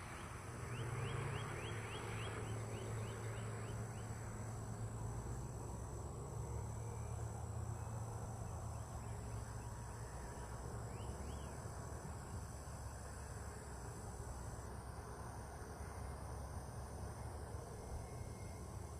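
Outdoor marsh ambience: insects trill steadily at a high pitch over a low rumble. A bird gives a quick run of short rising chirps in the first few seconds, and another brief call about midway.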